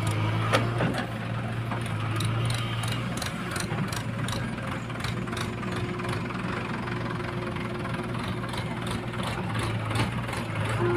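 Heavy diesel engine of sand-loading machinery running steadily, with repeated short clicks and knocks over it.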